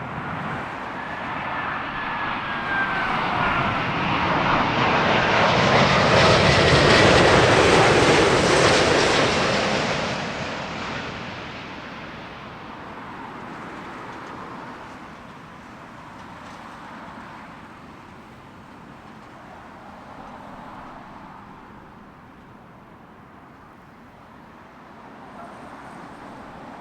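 Jet airliner passing low overhead on final approach: the engine noise swells to a loud peak about seven seconds in, then fades away. A faint whine falls in pitch over the first few seconds.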